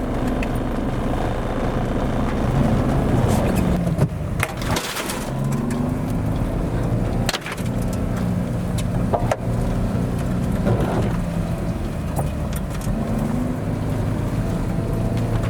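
Suzuki Carry kei truck's engine revving up and falling back repeatedly under load, its pitch rising and dropping several times, with two brief dips, about four and a half and seven seconds in.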